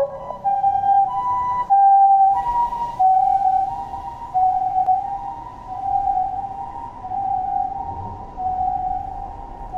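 Ambulance siren sounding the two-tone hi-lo "pii-poo" pattern. A higher and a lower note alternate, each about half a second long.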